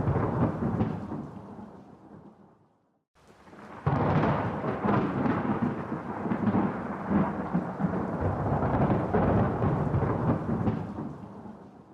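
Rolling thunder. A rumble dies away over the first three seconds, then a new peal breaks in suddenly about four seconds in and rumbles on for several seconds before fading out near the end.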